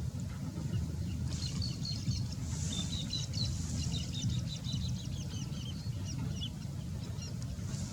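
Birds chirping in quick runs of short, high chirps over a steady low rumble.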